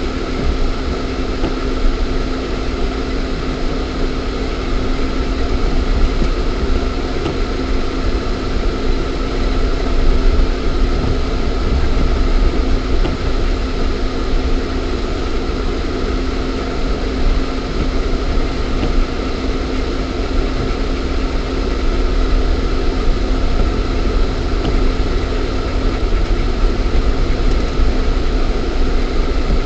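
Lada Niva's 1.7-litre four-cylinder petrol engine running steadily with a constant hum and low rumble, heard from inside the cabin.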